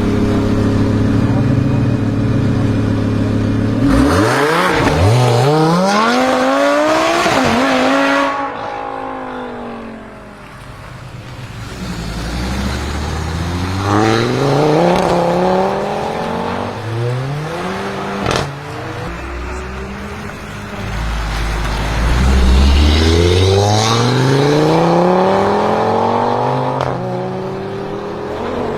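Audi RS3 Sportback's turbocharged 2.5-litre five-cylinder engine running through an Armytrix exhaust. It idles steadily, then is revved three times, each time climbing in pitch and falling back. A single sharp pop comes between the second and third revs.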